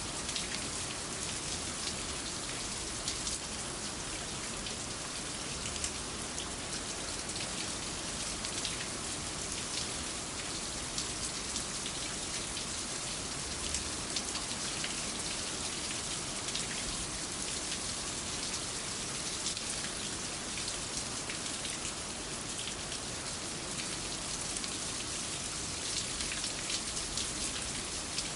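Steady rain falling, a dense even hiss with many fine drop patters.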